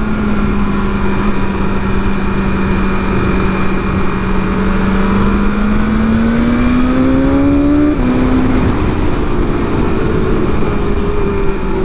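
Inline-four sport bike engine under way at steady revs, climbing in pitch for a couple of seconds and then dropping at a shift about eight seconds in before settling again, with a steady rush of wind noise.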